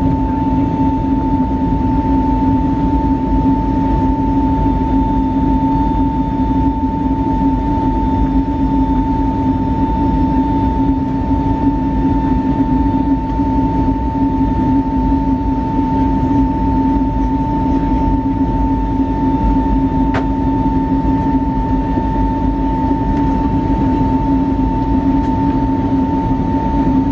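Steady engine drone and airflow rumble inside the cabin of an Airbus A320neo, with a constant mid-pitched whine and a lower hum over a deep rumble. A single faint click about 20 seconds in.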